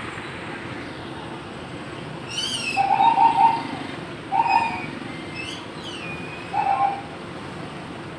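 A bird calling over steady traffic noise: three short cooing calls, the first made of about four quick pulses, with a couple of high, falling chirps among them.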